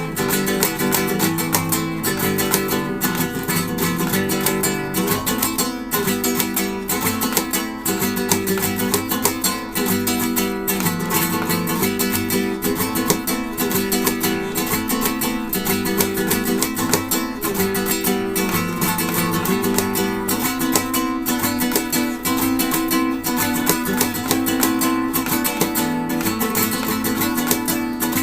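Acoustic guitar played in a live performance: a fast, steady stream of plucked notes over a repeating chord pattern.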